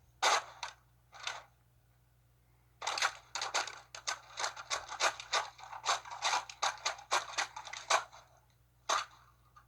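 A rapid, uneven run of sharp clicks and knocks, like hard plastic pieces clattering: a pair near the start, a dense burst of several a second over the middle stretch, and a single knock near the end.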